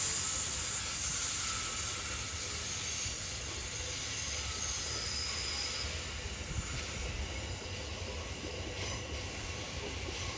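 Electric Uetliberg-line passenger train running on the rails, with a faint wheel squeal in the first half. The sound eases off over the first several seconds, then holds steady.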